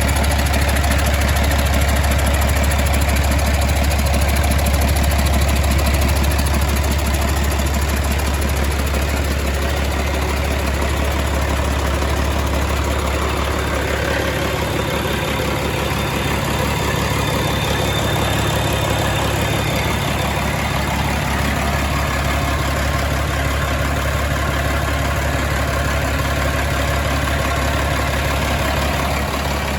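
Caterpillar C13 inline-six diesel engine running steadily at idle, with an even low diesel beat.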